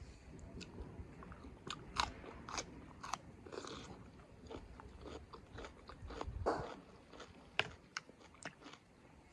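Close-up mouth sounds of a person eating a chicken curry meal: chewing with irregular crunches and sharp clicks.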